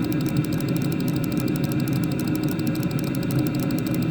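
Chinese diesel heater running on high: a steady rush of the burner and combustion fan, with the fuel dosing pump ticking about seven times a second as the fuel management regulates the mixture.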